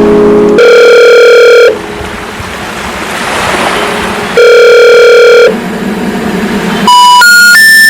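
Telephone call tones: two long, loud steady tones about four seconds apart, with a quieter hiss between them. Near the end come three short tones, each one higher than the last, in the pattern of the signal that says a call cannot be completed.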